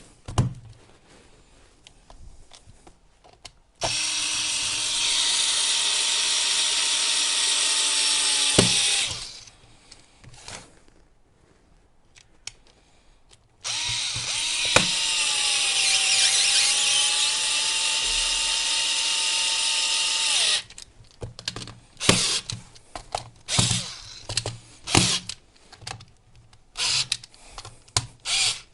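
Electric screwdriver driving screws into an e-bike battery case: two steady runs of about five and seven seconds, the motor's pitch dipping as a screw takes up load in the second run. Scattered clicks and taps follow.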